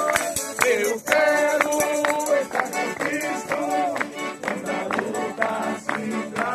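Accordion music with a sustained melody over a steady rhythm.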